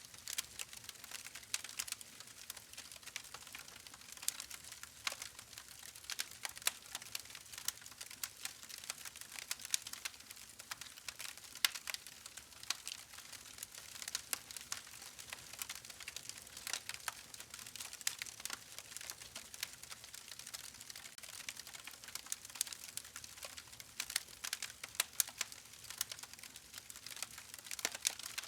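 Campfire crackling steadily, with many small irregular pops and snaps of burning wood over a soft hiss.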